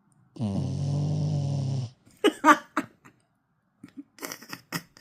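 Pet dog snoring: one long snore about a second and a half in length, then a few short snuffling bursts in two clusters.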